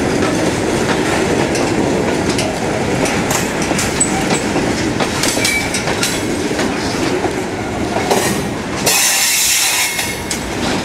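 Freight cars rolling past slowly, their wheels clicking and clacking over the rail joints under a steady rumble. About nine seconds in comes a burst of hissing lasting about a second.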